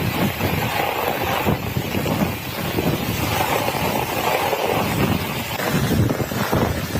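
Heavy rain pouring steadily, with wind buffeting the microphone.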